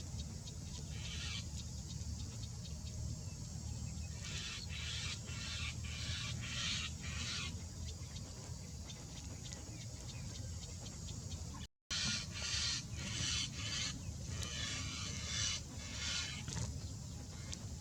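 Bird calls in several bursts of rapid, high chirps, over a steady low hum. The sound cuts out for a split second about two-thirds of the way through.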